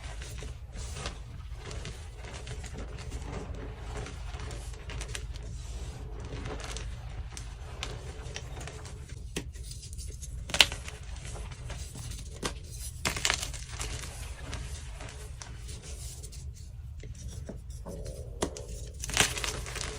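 Dyed blocks of BSN gym chalk being crushed and crumbled, a continuous dry crunching and crackling with a few sharper snaps. The loudest snaps come about halfway through and near the end.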